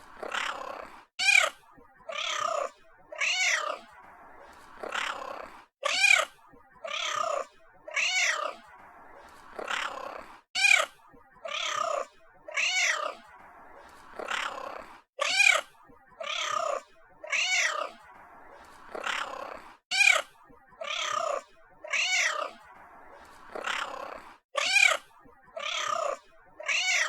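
Domestic cat meowing over and over, about one meow a second, each call rising and then falling in pitch.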